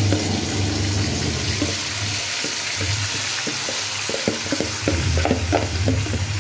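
Marinated chicken pieces sizzling as they are tipped into hot oil and browned onions in a metal pan. From about halfway through, quick clicks and knocks of a spoon against the bowl and pan sound over the steady sizzle.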